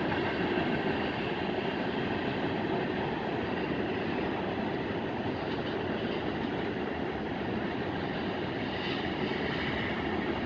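Freight train cars rolling past on the rails, a steady even noise of wheels and cars without a clear clickety-clack beat.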